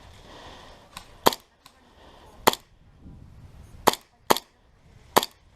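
Airsoft gun firing five sharp single shots at uneven intervals over about four seconds.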